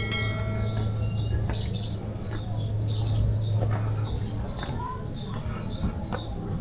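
Small birds chirping, short chirps about every second or so, over a steady low hum.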